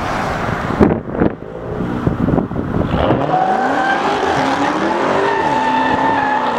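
A car accelerating hard down the street, its engine revving up with two quick dips in pitch like gear shifts, then holding a steady high note. A couple of sharp knocks come about a second in.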